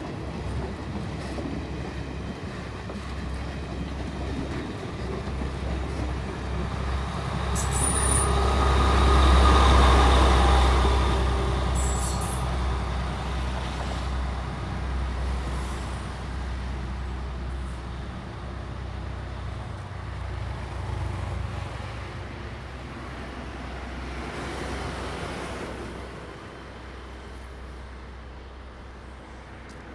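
A train passing: a deep rumble that builds to its loudest about ten seconds in and then fades away, with two brief high squeaks near its loudest point.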